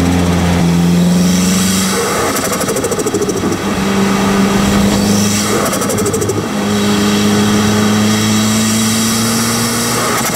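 Nissan Silvia S15's turbocharged SR20DET four-cylinder, heard from a microphone right at the turbo while driving. It runs with a steady note that breaks off twice, about two seconds in and again past the middle, as the throttle changes, then climbs slowly.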